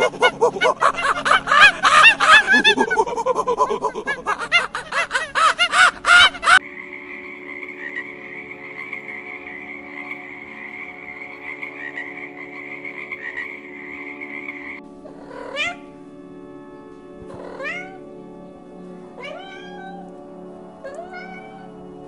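Animal calls over faint background music: a loud, dense chorus of many pulsing calls that cuts off suddenly about six and a half seconds in, then a steady high drone, then a string of single rising calls about every two seconds.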